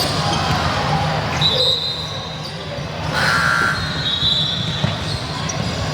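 Basketball game sounds in a gym hall: a ball bouncing on the court and a few short high squeaks, over steady hall noise.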